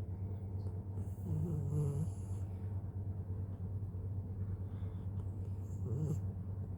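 A sleeping dog snoring: one longer snore about a second in and a shorter one near the end.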